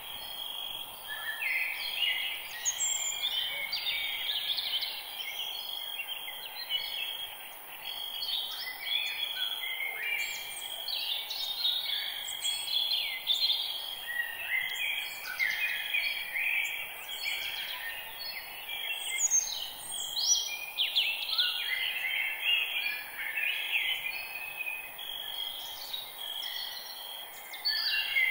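Many birds singing and chirping together, a dense chorus of short calls and quick up-and-down notes, over a faint steady hiss.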